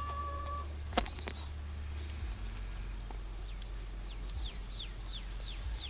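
A bird singing a quick run of high notes that each slide downward, over a steady low rumble, with a single sharp click about a second in.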